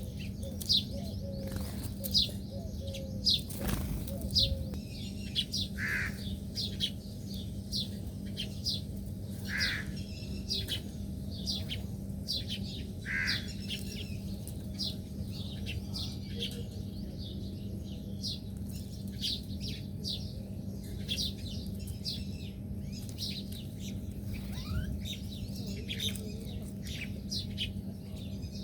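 Small birds chirping: a continuous run of short, high chirps, with a louder, lower call three times in the first half. A steady low hum runs underneath.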